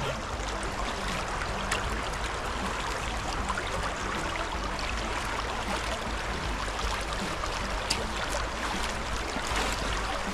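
Steady rush of flowing river water, with a few brief faint clicks.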